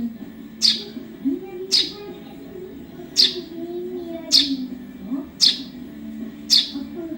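Young Eurasian tree sparrow calling: six sharp chirps, each sweeping downward in pitch, about one a second, over a low wavering tone.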